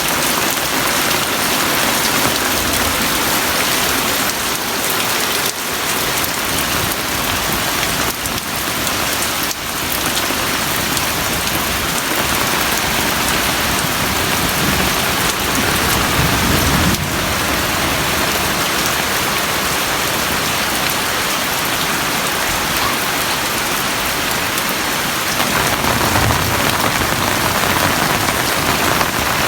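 Heavy rain falling steadily: a dense, even hiss of rain on surfaces. A low rumble swells briefly about two-thirds of the way through and again near the end.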